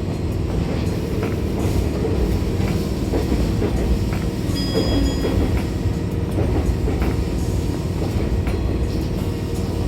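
Electric passenger train running, a steady low rumble of wheels on track, with a brief thin high squeal from the wheels about five seconds in.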